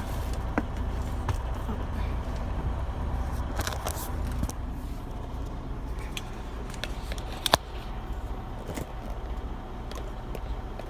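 Steady low hum of an idling semi-truck engine inside the cab, with scattered small clicks and one sharp click about seven and a half seconds in.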